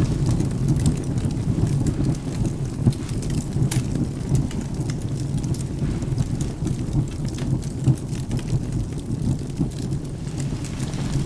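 Ambience of rain with a low, continuous thunder rumble, overlaid with the sharp crackles and pops of a burning wood fire; one crackle stands out a little under four seconds in.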